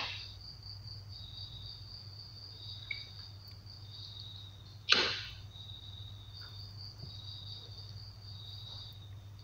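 Crickets chirping steadily at two high pitches, over a low steady hum. About five seconds in comes a single sudden sharp knock, the loudest sound, which dies away within about half a second.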